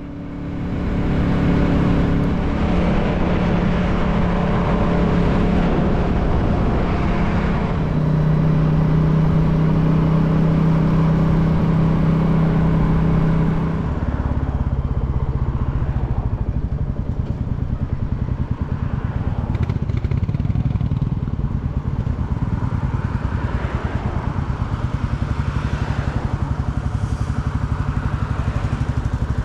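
Motorcycle engine running while under way, its low note shifting pitch a few times as the revs change, over steady road noise.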